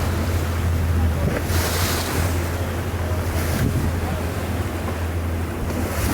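Wind buffeting the microphone over sea water rushing and splashing against a boat offshore, with a steady low drone underneath and the rush swelling every second or two.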